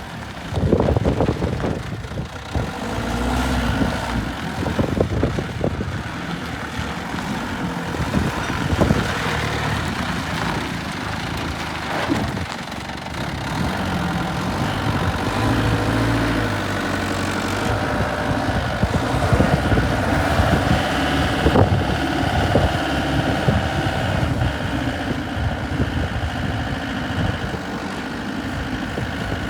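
Engine of a Doosan D30G forklift running, mostly idling, with the engine note shifting now and then and a few brief knocks.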